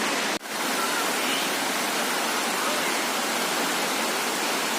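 Steady rush of the Dassam Falls waterfall, a dense even roar of falling water. It cuts out for an instant about half a second in.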